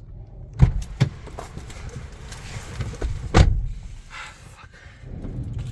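Strong wind rumbling on the microphone, with sharp thumps from van doors being worked against the wind: two about half a second apart early in the clip and a louder one near the middle.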